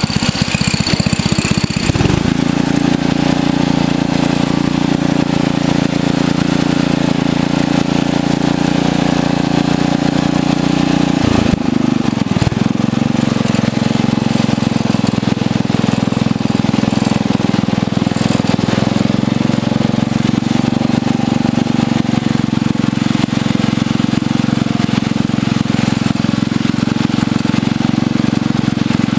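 Craftsman riding lawn tractor's engine running steadily while the tractor is driven. Its note shifts about two seconds in and dips briefly near the middle before settling again.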